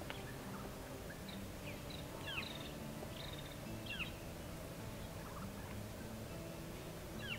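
Faint bird calls: scattered short chirps, about half a dozen over several seconds, over a low, steady outdoor background.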